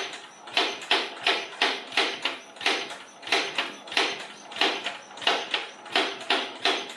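Vintage Lister Petter type A single-cylinder stationary engine turning over, with sharp, evenly spaced beats about three a second.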